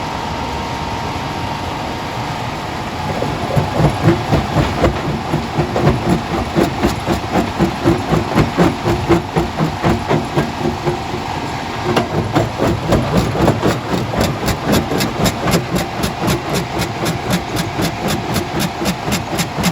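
Heavy machinery running: a steady hum, then a rhythmic pounding starting about three seconds in, at roughly two beats a second, quickening to about three or four a second in the second half.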